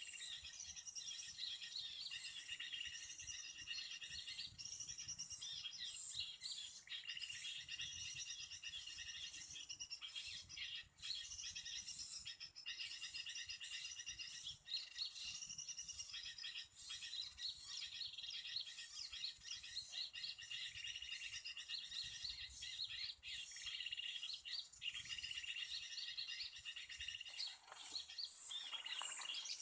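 Small songbirds' high, rapid chirping calls, repeated without a break. A short noise comes near the end.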